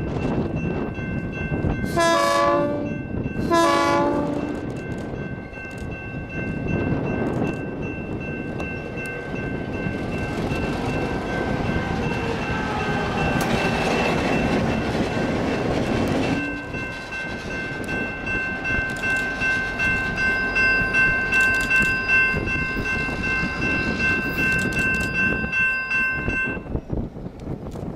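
A locomotive horn sounds two short blasts as a train approaches. The train then rumbles past, and its cars' wheels click in an even rhythm over the rail joints.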